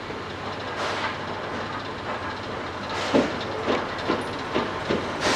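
Train hauled by the C11 325 steam tank locomotive moving at the station, with a steady hiss of steam. From about three seconds in come sharp, even clacks about two a second.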